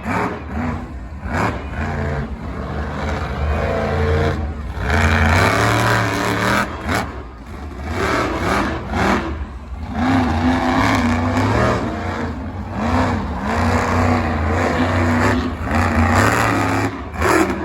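Monster truck engine revving hard, its pitch rising and falling again and again with brief drops as the throttle comes off between bursts.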